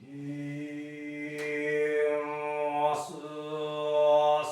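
A man's voice chanting a Shinto prayer on one long held low note, with short breaks about a second and a half in and again about three seconds in.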